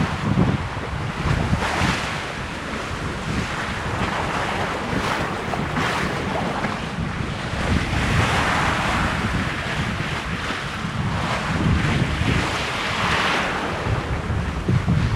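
Wind buffeting the microphone over the steady rush of water along a sailboat's hull under sail, with several louder swells of hissing wash as waves pass.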